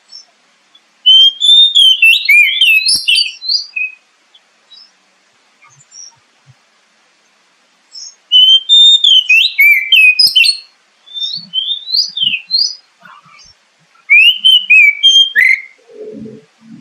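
Oriental magpie-robin (kacer) song: loud, fast, varied whistled phrases in three bouts separated by short pauses.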